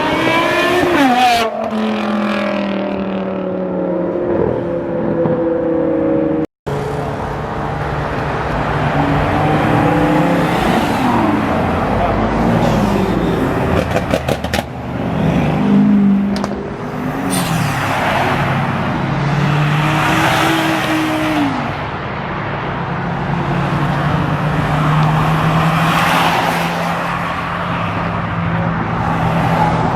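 Car engines running and revving, their pitch rising and falling as cars move past. The sound drops out briefly about six and a half seconds in.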